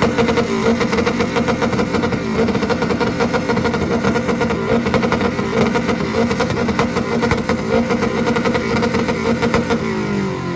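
Car engine held on a two-step launch-control rev limiter. The revs climb, then hang steady at the limiter with a fast stuttering crackle for about ten seconds, and fall away near the end.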